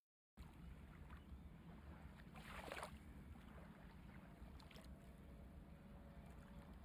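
Faint steady background hiss and low hum, with one brief rustle about two and a half seconds in and a couple of light ticks near five seconds.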